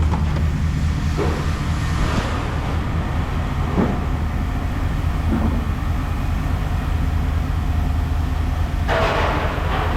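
Heavy machinery running steadily with a low drone, loud enough to drown out talk, with a few clanks and a rattle of scrap metal being handled over it.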